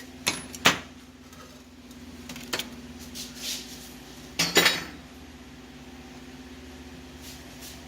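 Metal clinks and clanks of steel pieces and tools being handled at a welding bench: a few sharp knocks near the start, one about two and a half seconds in, and a louder cluster of clanks a little after four seconds, over a steady electrical hum.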